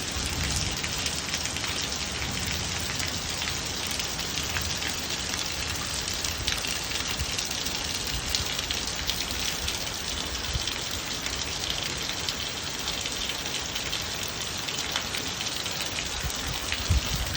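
Steady rain falling, with many individual drops ticking against a surface over an even hiss. A short low thump sounds near the end.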